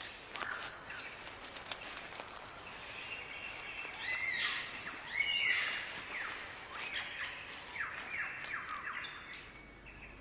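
Birds singing: a series of whistled calls, with loud arching notes about four to six seconds in, followed by a run of quick downward-sweeping notes.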